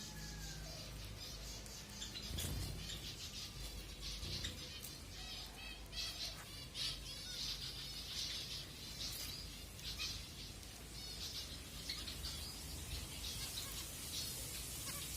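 Zebra finches chirping and calling, a busy run of short, repeated high chirps in quick clusters.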